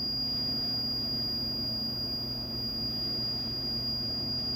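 Steady low electrical hum with a thin, high-pitched steady whine above it, unchanging throughout.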